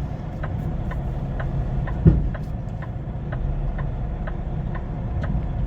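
Semi-truck engine running at idle, a steady low rumble with an even ticking a bit over twice a second. There is one short thump about two seconds in.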